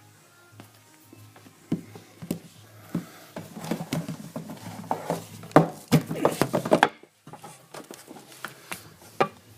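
Clicks and knocks of a screwdriver and hands working at the metal cabinet of a washing machine as the lid's rear screws are taken out, busiest in the middle with a few sharp knocks.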